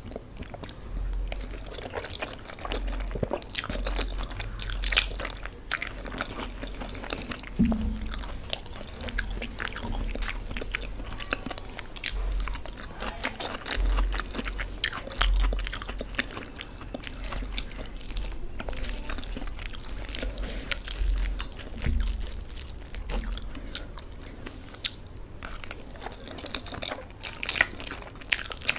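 Close-miked eating of Maggi instant noodles from a fork: chewing and biting, with many small wet mouth clicks throughout.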